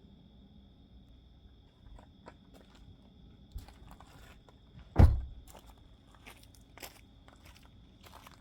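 A series of light clicks and crunches with one heavy thump about five seconds in, over a faint steady high whine.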